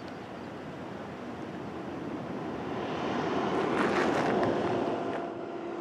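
Highway traffic noise: tyres and engine on the road, with a vehicle passing that swells to its loudest about two-thirds of the way through and then fades.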